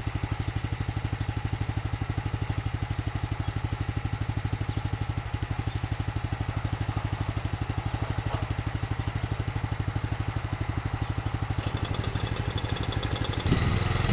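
An engine idling with a steady, even pulse, picking up slightly in level in the last second.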